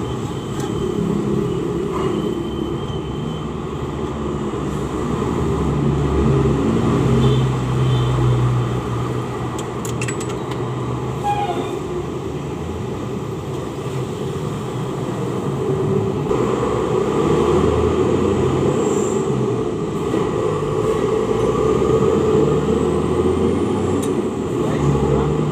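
Steady low rumble of running motor vehicles, swelling and easing, with a few faint metallic clicks about ten seconds in.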